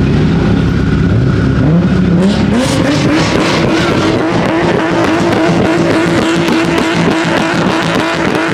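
Car engine revving up, its pitch climbing for a couple of seconds, then held steady at high revs for several seconds.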